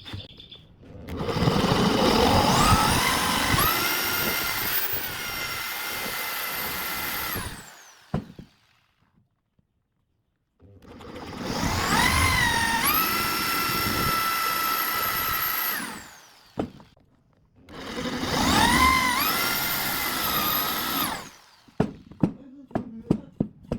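Electric power tool motor run three times in succession. Each time its whine rises as it spins up, holds steady for a few seconds, then falls away as it is switched off.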